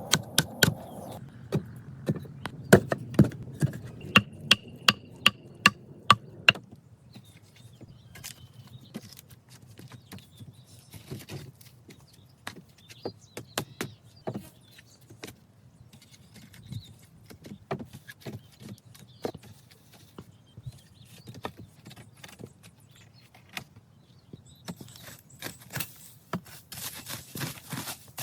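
A hand tool striking wood, with a quick regular run of sharp blows, about two or three a second, in the first few seconds, then scattered softer knocks. A hissing, rustling stretch comes near the end.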